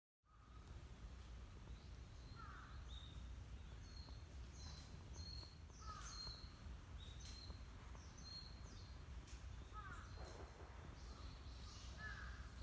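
Faint outdoor ambience with birds calling: a run of short high chirps every second or so, and now and then a lower, falling call, over a low steady rumble.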